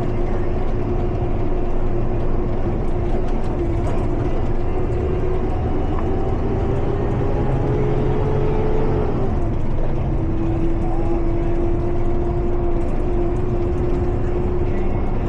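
Water truck's diesel engine running under way, a steady low drone whose pitch climbs slowly and then drops about nine seconds in, as at a gear change.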